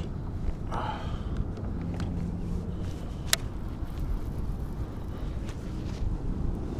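Steady wind buffeting the microphone, a low rumble, with one sharp click about three seconds in.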